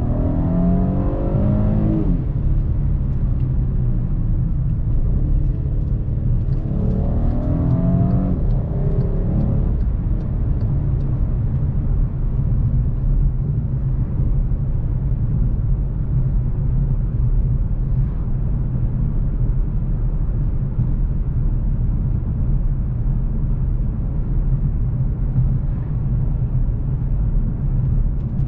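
Volkswagen CC's 3.6-litre VR6 engine heard from inside the cabin. It pulls up in pitch under acceleration and drops at a gear change about two seconds in, then pulls up again from about six to nine seconds. After that it settles into a steady low drone with road noise.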